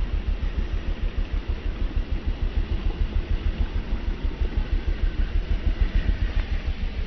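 A vehicle engine idling with a low, pulsing rumble, with a faint rise in pitch near the end.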